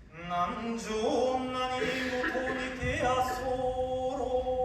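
Hiroshima kagura chant: a voice singing slow, drawn-out notes that glide at first, then settle into long held tones.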